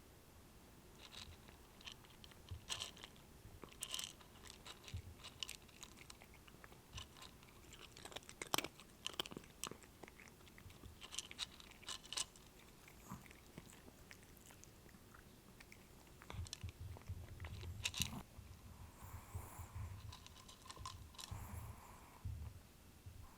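Close-up eating sounds: a person chewing and crunching food, with scattered sharp clicks. A low hum comes in about two-thirds of the way through.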